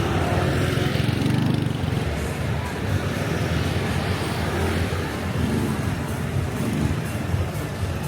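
Street traffic: a steady low rumble of vehicle engines and tyres moving along the road.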